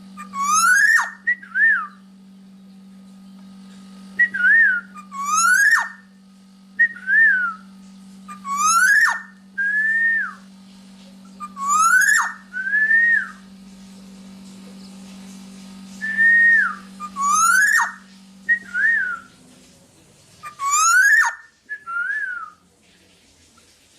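Black-naped oriole singing: short fluty whistled phrases that slur up and down, repeated every second or two, mixed with several harsh rasping notes. A steady low hum runs beneath and stops about three-quarters of the way through.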